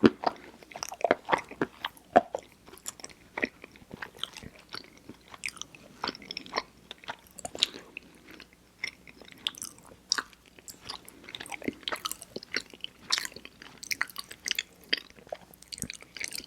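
Close-up mouth sounds of someone chewing mochi ice cream: irregular sticky, wet smacks and clicks of the soft rice dough and ice cream, several each second.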